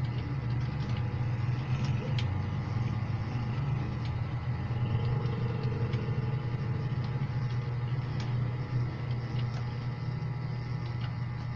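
A steady low mechanical hum, with a few scattered faint clicks of keyboard keys.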